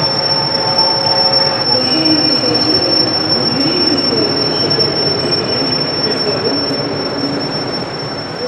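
Train running on rails with a steady high wheel squeal over a continuous rumble, and lower wavering squeals coming in about two seconds in.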